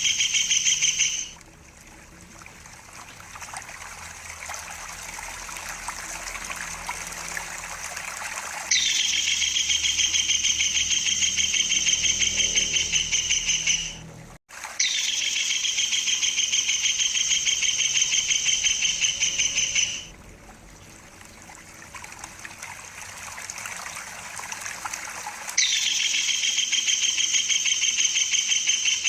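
Kingfisher (tengkek udang) giving long, high rolling trills with fast pulsing, each about five to six seconds long. Running water trickles in the gaps between them. One trill ends about a second in, and new ones start near a third of the way in, again near the middle, and near the end.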